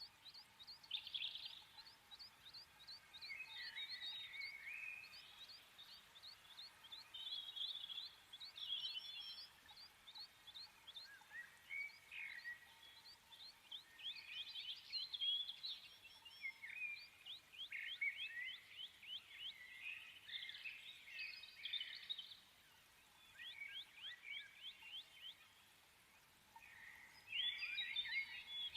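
Birds chirping and singing, with quick runs of short descending notes and warbling phrases that come and go, loudest near the end.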